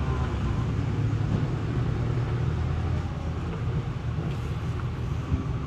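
A vehicle engine running steadily, a low rumble that eases slightly about three seconds in.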